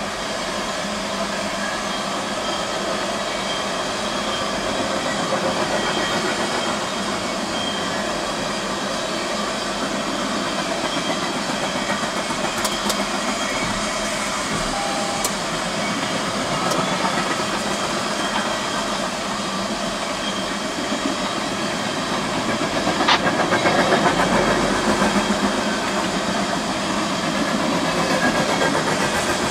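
A freight train of empty oil tank cars rolling past: the steady hissing noise of steel wheels on rail, with a few sharp clicks along the way and a louder stretch about three-quarters of the way through.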